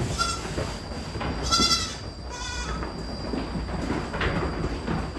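Goats bleating: two or three quavering bleats in the first three seconds, the middle one the longest and loudest.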